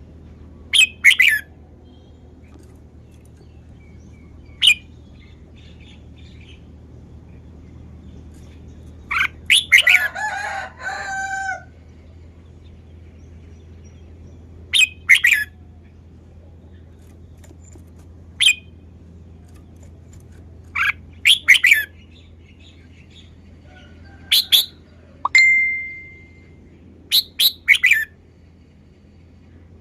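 Red-whiskered bulbul singing short, bright song phrases every few seconds, with a longer, more varied phrase about ten seconds in.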